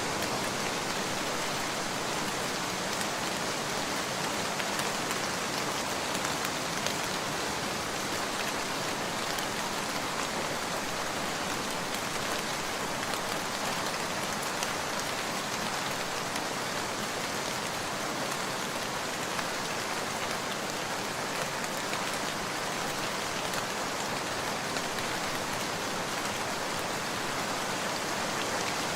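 Steady rain falling, an even hiss with faint scattered ticks.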